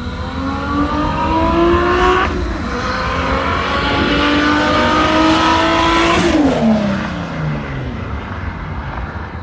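Turbocharged BMW N54 inline-six under full throttle, rising in pitch, shifting up about two seconds in and pulling hard again. About six seconds in it lifts off and the revs fall away.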